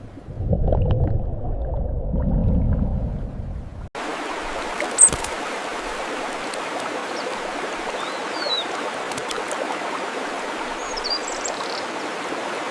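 Low wind rumble on the microphone, then an abrupt change to a steady rush of flowing stream water, with a few short, high bird chirps over it.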